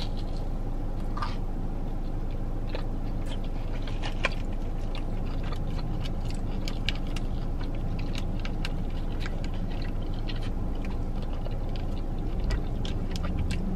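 Chewing a bite of Korean fried cheese on a stick, with scattered small clicks as little condiment packets are handled and tugged at. A steady low hum runs underneath.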